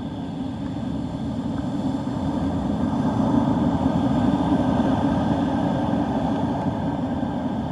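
Steady low rumble of wind buffeting the microphone over breaking surf on a stormy beach, swelling a couple of seconds in and easing slightly near the end.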